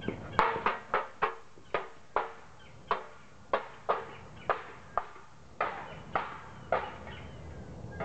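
A bird calling in a series of short, harsh notes, about two a second at an uneven pace.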